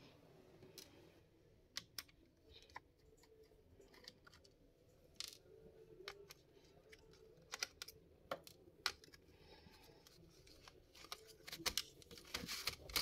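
Scattered sharp clicks and light taps of a screwdriver, screws and plastic parts being handled while a laptop is taken apart. The clicks come thicker near the end.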